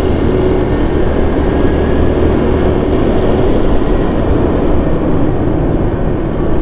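Steady engine and road noise of a vehicle being driven, a continuous low rumble.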